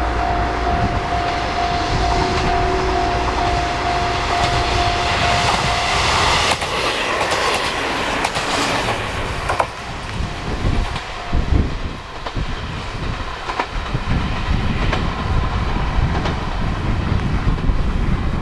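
A level-crossing alarm rings with a steady repeating tone for the first six seconds or so. A diesel train then passes, loudest about seven to nine seconds in, and fades into an uneven low rumble.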